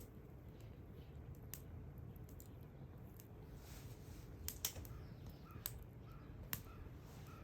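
Wood fire crackling: a few sharp pops, two of them close together about four and a half seconds in, over a low steady rumble.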